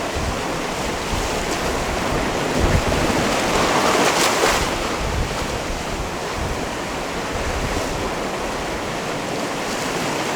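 Sea waves washing against a rocky shore, with one wave breaking and surging louder about four seconds in. Gusts of wind buffet the microphone with low thumps.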